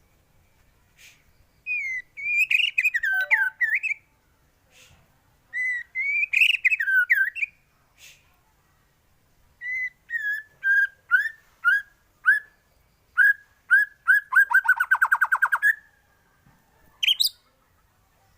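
White-rumped shama singing: loud whistled phrases of sweeping, varied notes in three bouts, the last a run of separate notes that speeds up into a rapid trill, followed near the end by one short rising note.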